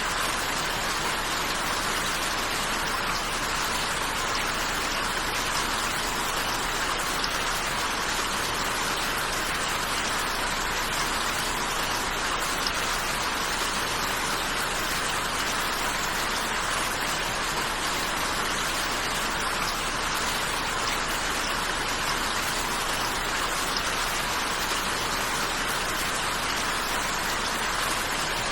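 Steady rain falling, an even hiss of drops that does not change.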